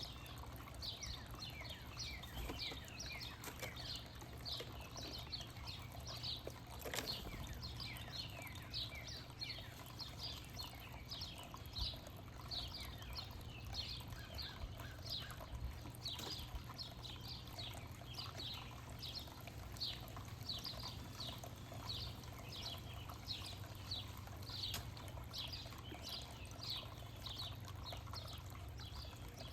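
Songbirds calling: a steady run of short, high chirps, each sliding downward, about two a second, with a single brief knock about seven seconds in.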